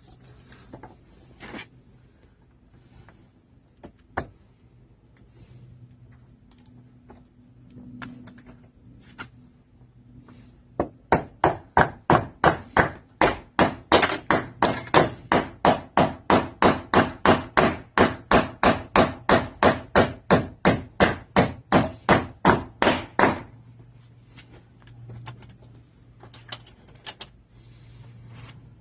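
Hammer driving galvanized trim nails into a treated 2x4 patch in a wooden window frame: a few light taps, then a long, fast, even run of blows, about three or four a second, that stops suddenly, with a faint metallic ring on the strongest strikes.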